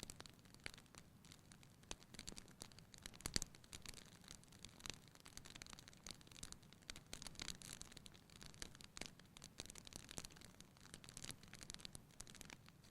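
Wood fire in a fireplace crackling quietly: frequent irregular pops and snaps over a faint soft hiss, with one louder pop about three and a half seconds in.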